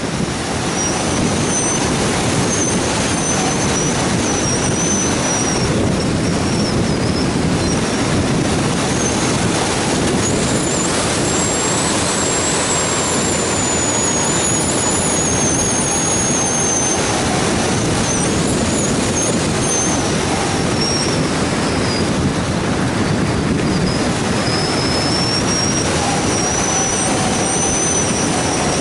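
Heavy wind buffeting an action camera's microphone in flight, a steady rushing noise. A thin, high whine rises and falls through it, fading out for a few moments here and there.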